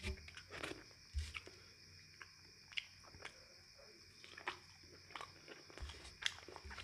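A person chewing a mouthful of rice and curry, with soft wet mouth sounds and scattered small clicks.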